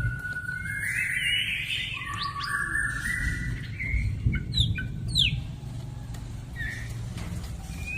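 White-rumped shama (murai batu) singing: a run of clear whistled notes, some held and some gliding, with a few sharp down-sweeping notes about halfway through, over a steady low hum.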